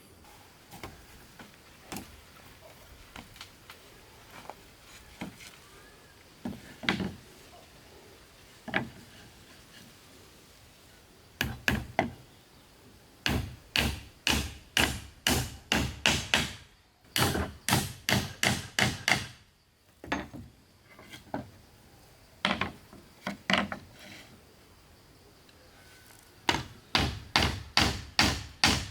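A hand tool striking wood: a few scattered single knocks, then runs of quick blows about three a second, broken by short pauses.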